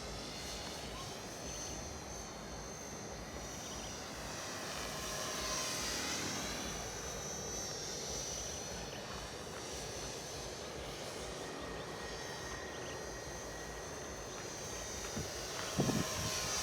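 Radio-controlled model airplane flying at a distance, its motor and propeller whine rising and falling in pitch as it passes by, twice. A brief thump near the end.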